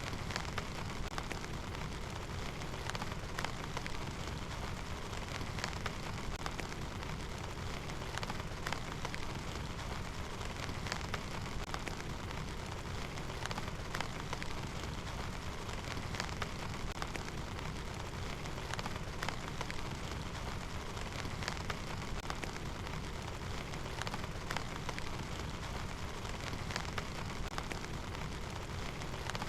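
Steady heavy rain falling, with many scattered sharp drop taps heard on top of the even hiss of the downpour.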